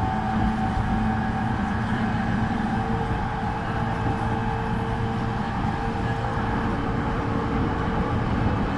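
JR East E231 series 1000 electric commuter train running at a steady speed, heard from inside the passenger car: a continuous rumble of wheels on rail with a few faint tones that hold a level pitch.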